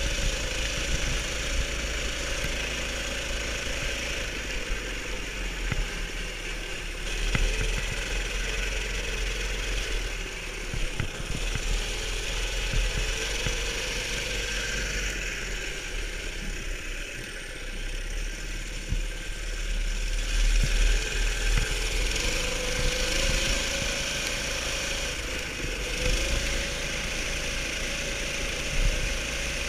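Baja Warrior mini bike's 290cc engine running as the bike is ridden, its pitch wavering with the throttle. It eases off a little past the middle and picks up again soon after.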